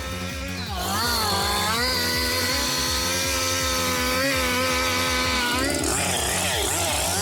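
Chainsaw running at high revs, its pitch swooping up and down about a second in, then holding fairly steady and wavering near the end. A background music track with a steady beat plays underneath.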